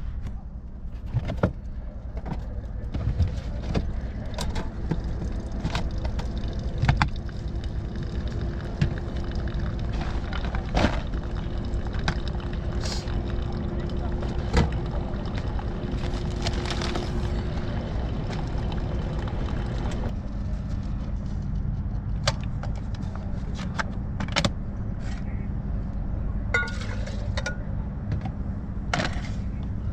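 Steady low hum of an idling vehicle engine, with scattered clicks and knocks.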